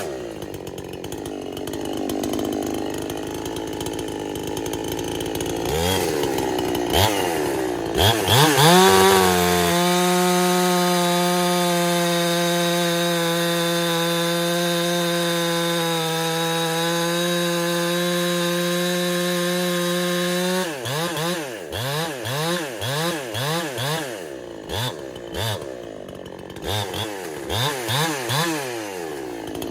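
Husqvarna-clone two-stroke chainsaw running: low at first, then a few short revs, then revved up and held steady at high revs for about ten seconds. After that comes a string of quick throttle blips, the revs rising and falling about every second.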